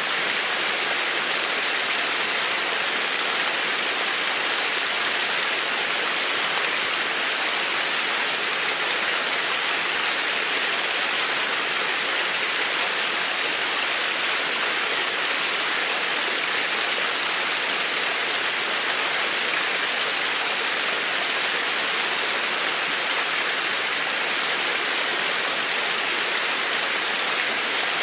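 Babbling creek: running water in a steady, unbroken rush.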